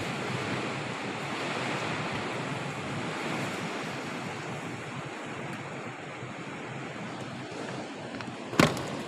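Storm wind blowing hard and steadily, an even rushing noise. A sharp knock sounds near the end.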